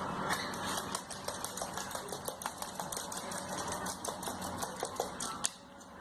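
Rapid, irregular clicking and tapping, with one sharp louder click about five and a half seconds in.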